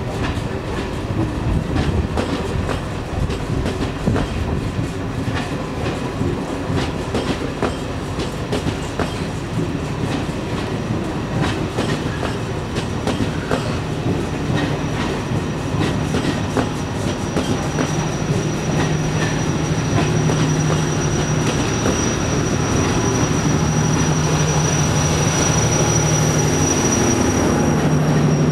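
A train of stainless-steel passenger coaches rolling past as it pulls out of the station, the wheels clicking over the rail joints. A thin, high, steady squeal comes in about halfway and grows louder toward the end.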